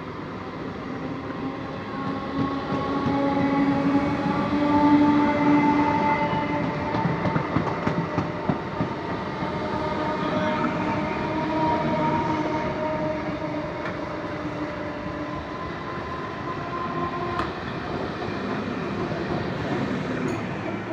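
BEML stainless-steel EMU local train passing slowly on the adjacent track. Its wheels clatter over the rail joints, and several steady whining tones come from its electric traction equipment, loudest about five seconds in. One sharp click comes near the end.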